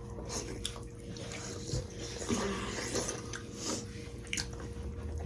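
Close-miked eating sounds: wet chewing and slurping of soup, with scattered small clicks.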